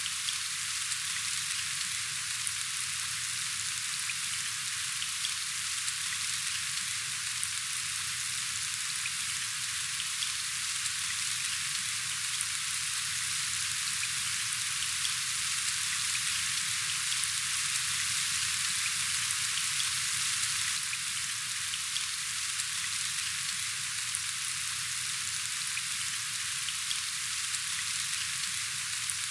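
Steady rain falling: an even hiss dotted with faint drop ticks, briefly a little heavier past the middle.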